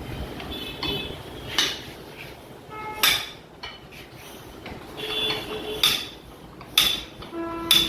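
Metal striking metal about five times: sharp clanks, several of them ringing briefly with a metallic tone, as parts and tools are worked on a hydraulic cylinder.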